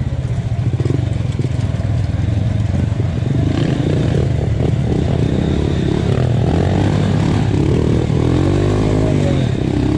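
Honda Win 125cc motorcycle engine running under way, its pitch rising and falling with the throttle, most clearly in the last few seconds.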